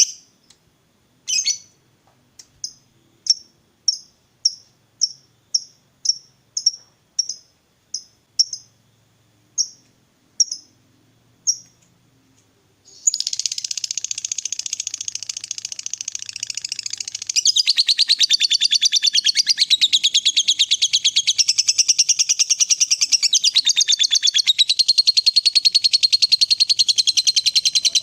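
Lovebird calling: a string of separate short, high chirps about every half second to second, then about halfway through it breaks into a long unbroken rapid chattering trill, the 'ngekek panjang' of a fighter-type lovebird.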